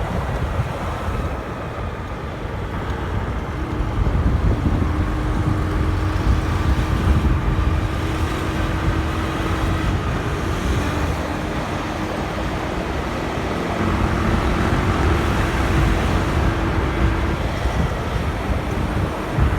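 Motorcycle riding through city traffic: a low, continuous rumble of wind and road noise on the microphone, with a steady engine hum from about four seconds in until near the end.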